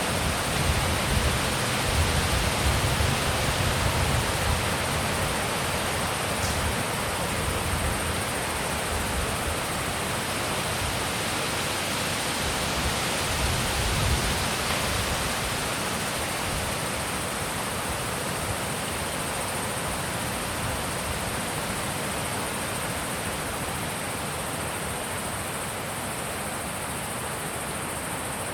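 Wind blowing steadily through a mountain pass, with gusts buffeting the microphone in a low rumble during the first half and easing off later.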